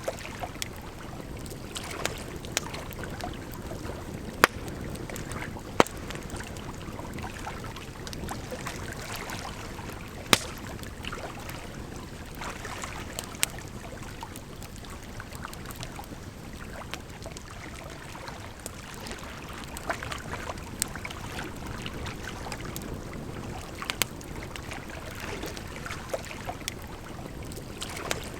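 Campfire crackling, with sharp wood pops at irregular intervals a few seconds apart, over a steady rush of flowing water.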